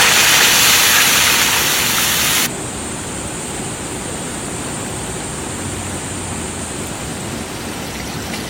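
A loud, even hiss that cuts off abruptly about two and a half seconds in, followed by the steady, softer hiss of rain.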